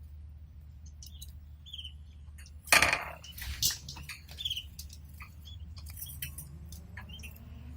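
Canaries moving about in their cage: scattered small clicks and scratches and a few short chirps, with one louder rustle about three seconds in, over a steady low hum.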